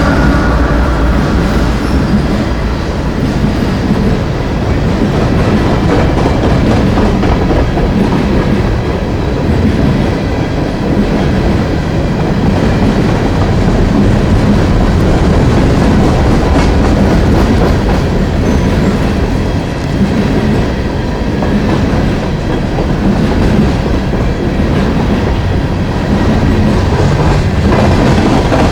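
Long loaded coal train's freight cars rolling past close by: a loud, steady rumble of steel wheels on rail with faint clicking, unbroken throughout.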